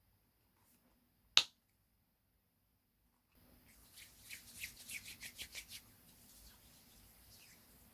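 Slime being played with by hand, making small popping and clicking sounds: one sharp pop about a second and a half in, then a run of quick clicks at about five a second between about 4 and 6 s.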